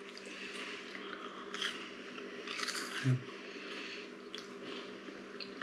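A person chewing crunchy crackers, with a few sharp crunches scattered through, over a steady low hum.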